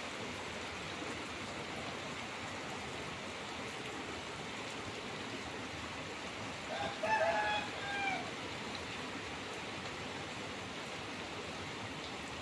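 Steady rain falling, an even hiss throughout, with a rooster crowing once about seven seconds in.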